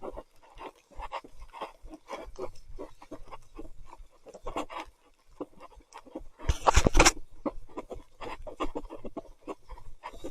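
A mountain biker breathing hard in short, repeated pants while riding through mud, with one louder burst of noise about two-thirds of the way through.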